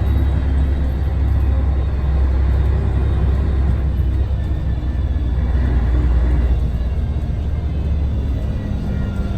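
Scania L113TRB bus's 11-litre six-cylinder DSC1171 diesel engine running under way, a steady low drone whose engine note shifts about two-thirds of the way through.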